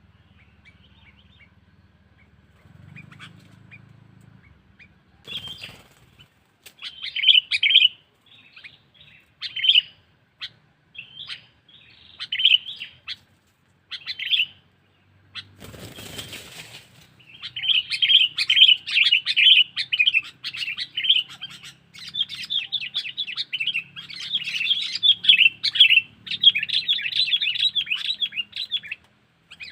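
Sooty-headed bulbul calls: scattered short chattering phrases at first, then dense, near-continuous chattering over the second half. Two brief rustling bursts break in, a short one early and a longer one a little past the middle.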